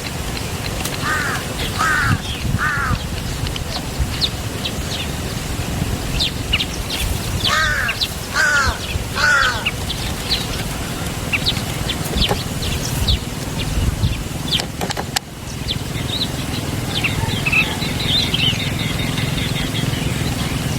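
Birds calling: two runs of three loud repeated calls, one near the start and one about eight seconds in, among many short high chirps, over a steady low background noise.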